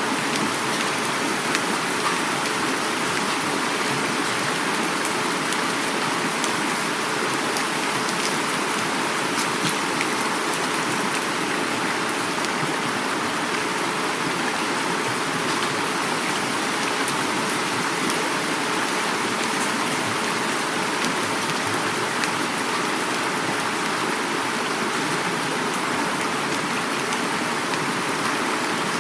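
Heavy rain falling steadily, mixed with the rushing of a flowing river. A dense, even hiss with fine drop ticks scattered through it.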